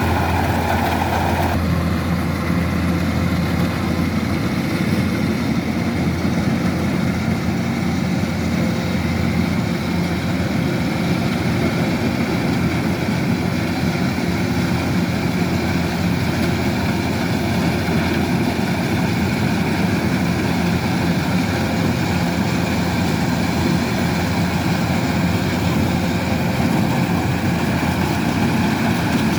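Kubota combine harvester's diesel engine running steadily under harvesting load, with a low hum and a higher whine from the machinery. One of the higher sounds cuts off about a second and a half in.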